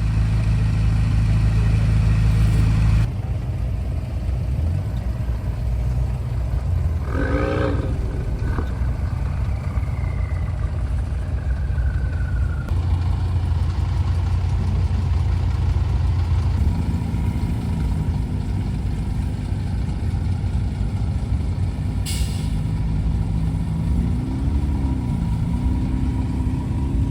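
Car engines running in slow-moving traffic, a steady low rumble. Near the end one engine's pitch rises and falls as it is gently revved.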